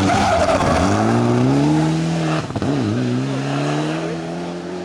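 Rally car engine accelerating hard past the spectators, revving up, dropping briefly in pitch as it changes gear about two and a half seconds in, then pulling up again and fading away.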